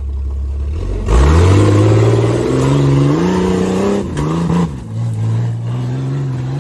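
Off-road rig's engine idling low, then revving hard about a second in and climbing in pitch in steps. It drops back and blips once about four seconds in, then holds a steady, lighter throttle.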